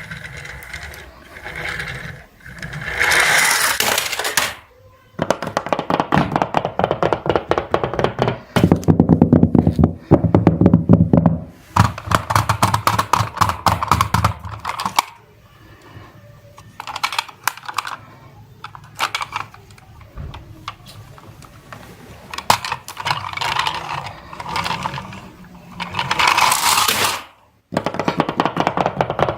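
Plastic toy vehicles rattling and clattering as they roll and slide, in bursts of rapid clicking lasting a second or a few, with short pauses between.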